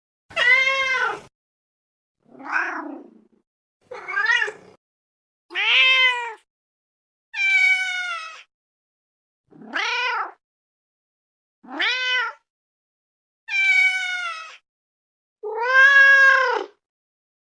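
Domestic cat meows: nine separate meows about two seconds apart, each rising then falling in pitch, with complete silence between them.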